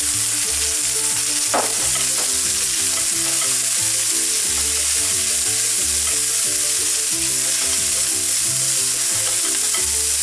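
Romanesco broccoli florets frying in hot oil with browned garlic in a nonstick pan: a steady sizzle as they are stirred with a spatula, with one sharp scrape or knock about a second and a half in.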